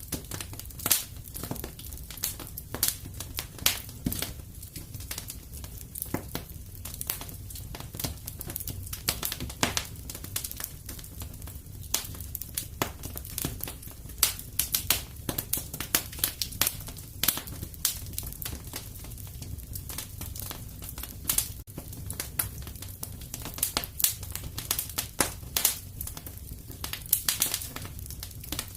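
Wood fire burning in a fireplace: frequent irregular pops and crackles over a steady low rumble of the flames.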